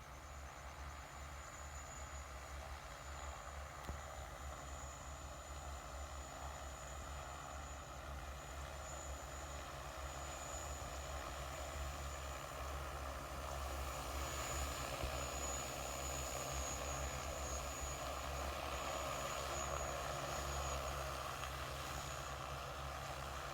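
Agricultural spraying drone's propellers whirring steadily, growing gradually louder over the first half or so.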